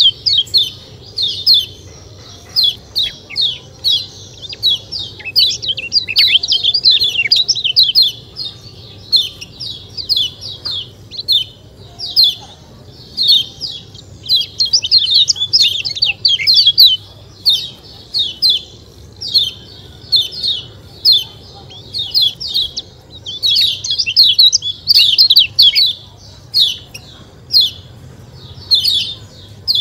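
Kecial kuning (lemon-bellied white-eye) calling: quick runs of short, high "ciak ciak" chirps in bursts, with brief pauses between them.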